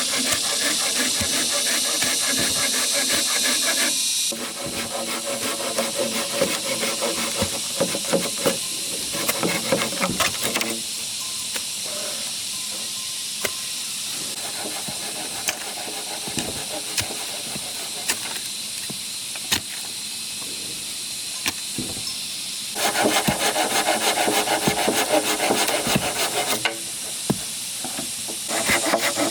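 Hand tools working bamboo: rasping, scraping strokes with scattered sharp knocks, over a steady high hiss. The texture changes abruptly several times.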